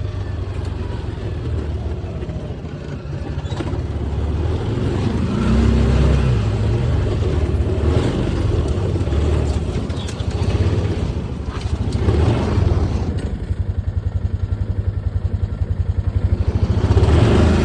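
A motor vehicle's engine running with a low rumble. It pulses fast and evenly in the last few seconds.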